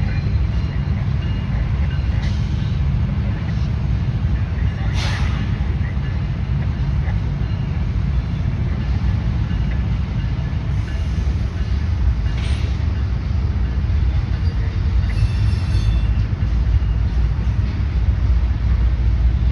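A train rolling past at trackside: a steady heavy low rumble of the passing cars, with a few brief high squeals or hisses from the wheels and brakes.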